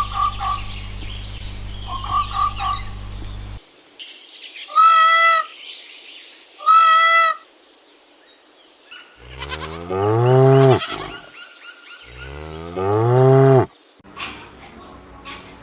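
A cow mooing twice, two long, loud, low calls about three seconds apart in the second half. These come after two short, high-pitched calls from another animal and some faint chirping over a low hum.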